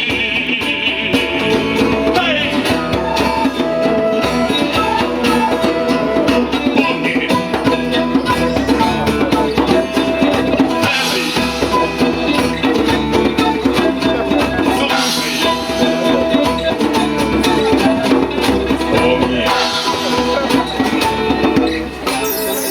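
Live band playing folk-style music with drums and percussion, steady and loud throughout.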